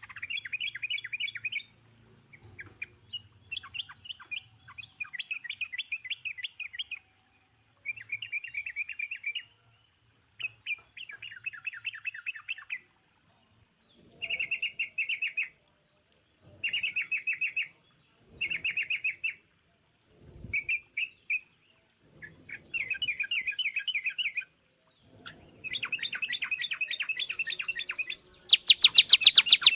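A small bird singing in rapid trilled phrases, each one to a few seconds long with short pauses between them; near the end comes a louder, higher and wider-ranging trill.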